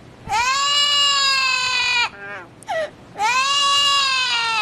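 A bird crying in two long, wailing calls that sound like a baby's cry, each about a second and a half long, rising slightly and then sagging in pitch. Short falling squeaks come between the calls.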